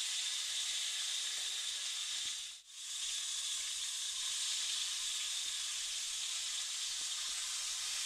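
Pork ribs sizzling as they are browned in hot oil in a wok: a steady hiss that dips out briefly about two and a half seconds in.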